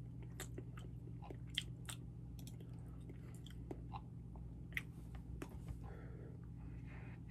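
Close-miked chewing of sushi with the mouth closed: soft, wet mouth clicks and smacks at irregular intervals, over a steady low hum. A short breathy hiss comes about six seconds in.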